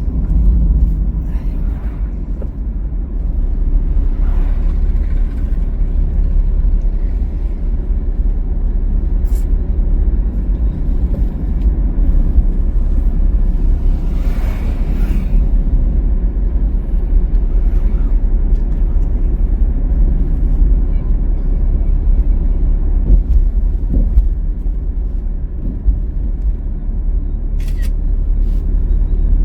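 Steady low rumble of a car driving along a highway: road and engine noise. There is a brief rise of hiss about halfway through.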